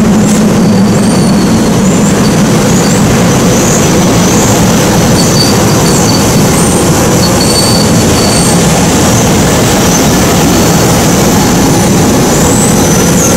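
SEPTA Silverliner IV electric multiple-unit commuter train rolling past close by, a loud, steady rumble of wheels on rail. Many short, high wheel squeals come and go over it.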